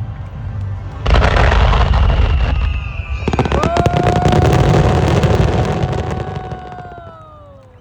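Aerial fireworks going off: a loud burst about a second in, then a second volley with dense crackling. A long whistling tone runs under the crackle and falls away in pitch as it fades near the end.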